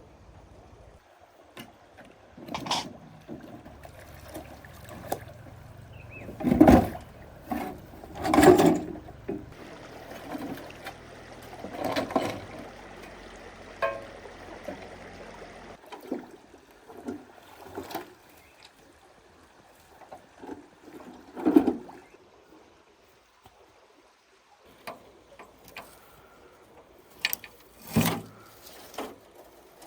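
A series of irregular knocks and clatters, a few of them loud, with a faint steady hiss for several seconds in the middle.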